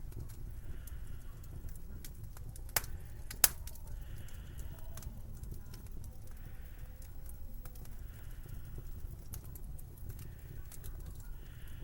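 Slow footsteps crunching in snow, one step every couple of seconds, over a steady low wind rumble. Two sharp cracks a little over half a second apart, about three seconds in, are the loudest sounds.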